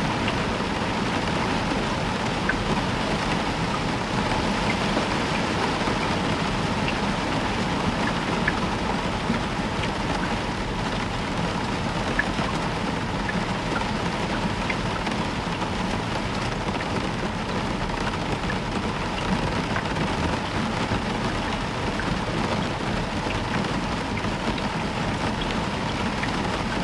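Heavy rain falling steadily, a constant hiss with scattered single drop ticks.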